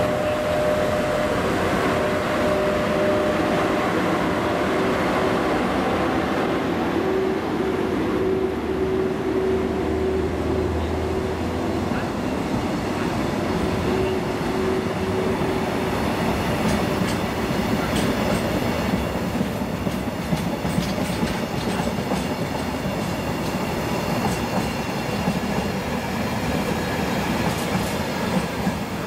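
Container freight train hauled by a JR EF81 electric locomotive rolling past close by: a steady rumble of wheels on rail, with a held hum through the first half. In the second half come repeated clicks of wheels crossing rail joints.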